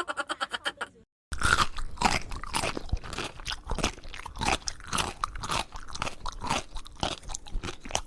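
Close-up chewing of crunchy food, starting about a second in: a dense run of irregular crunches, several a second.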